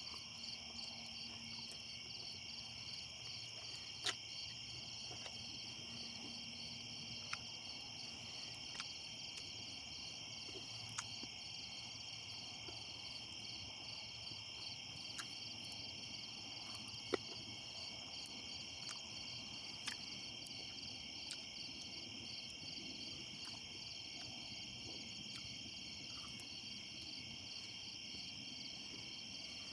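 A steady chorus of crickets and other insects, a fast, high pulsing chirp that never lets up. A few short, sharp clicks stand out over it, the loudest about four seconds and seventeen seconds in.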